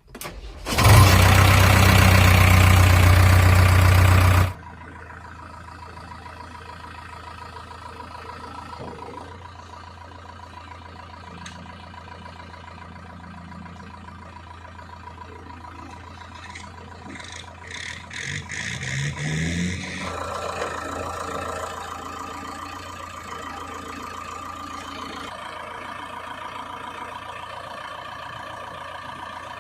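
Diesel engine of heavy farm or earth-moving machinery running steadily, revving up briefly about two-thirds of the way through. A very loud sound fills the first few seconds and stops suddenly.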